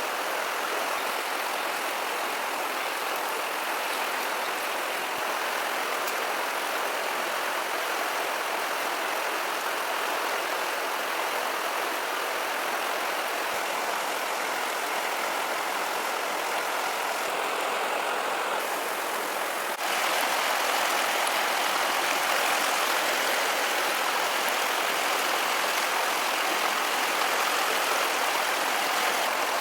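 Steady rushing noise with no separate events, stepping up a little louder at a cut about two-thirds of the way through.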